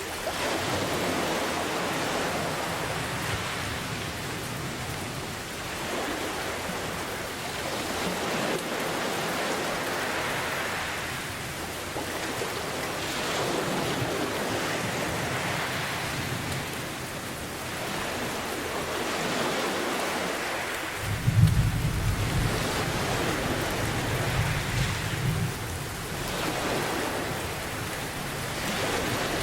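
Steady heavy rain mixed with ocean waves that swell and fade every few seconds. About two-thirds of the way in, thunder breaks with a sharp crack and rolls on as a low rumble for several seconds.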